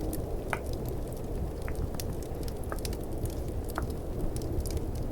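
Fireplace ambience with a crackling fire, many small sharp snaps and a few pops, over the steady low rumble of snowstorm wind ambience.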